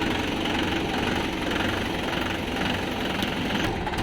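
Heavy diesel engine running steadily, with a faint regular pulse about twice a second.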